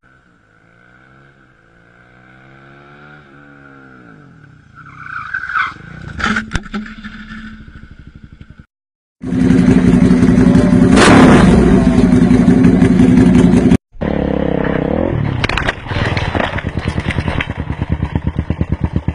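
Motorcycle engines running and revving in several short clips that cut off abruptly. There are a few sharp knocks about six seconds in and a loud knock about eleven seconds in.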